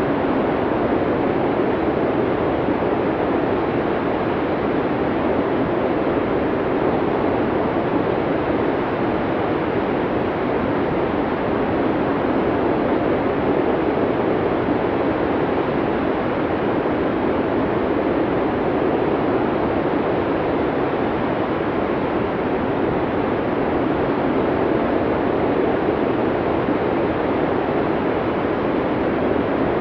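Blizzard wind blowing steadily, a dense rushing noise that swells slightly and eases.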